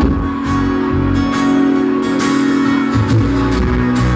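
Country rock band playing live, an instrumental passage: strummed and electric guitars over bass and drums with regular cymbal hits. It comes through loud and rough, as a poor-quality audience recording.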